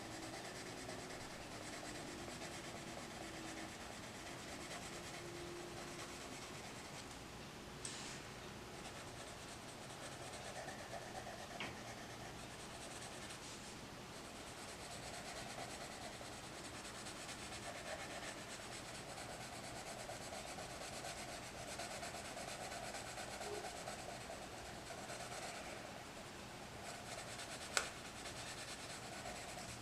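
Colored pencil shading on paper: a faint, steady scratchy rubbing, with one sharp tick near the end.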